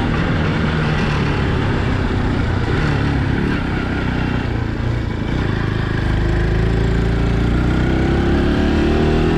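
Motorcycle engine running under way, easing off briefly a few seconds in, then rising steadily in pitch as it accelerates through the second half.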